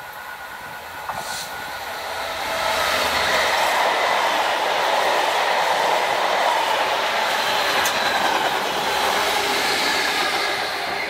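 Freight train of flat wagons rolling past at speed close by: a steady rumble and rattle of wheels on rail that builds about two seconds in. A Class 66 diesel locomotive goes by near the end as the noise begins to ease.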